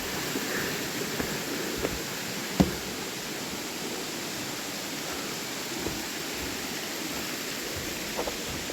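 Steady rush of water falling over a waterfall. A sharp knock comes about two and a half seconds in, with a few fainter clicks.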